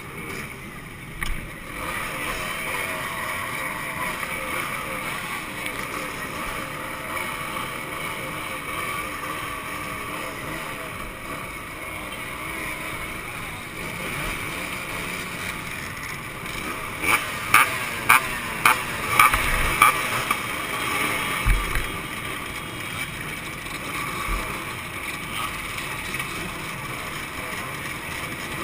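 Two-stroke motorcycle engines running steadily. Between about 17 and 20 seconds in there is a run of about six sharp, loud bursts.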